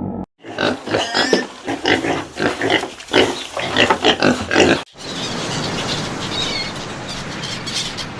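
Pigs grunting and squealing in a rapid run of short calls. About five seconds in they break off suddenly and give way to a steadier noise.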